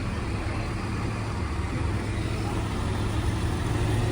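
A road vehicle's engine running with traffic noise, a steady low rumble that grows slowly louder as it draws nearer.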